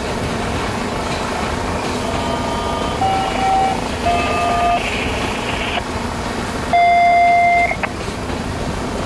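Freight train tank cars rolling past with a steady rumble of wheels on rail. A horn sounds three times over it, about three, four and seven seconds in, the last one the longest and loudest.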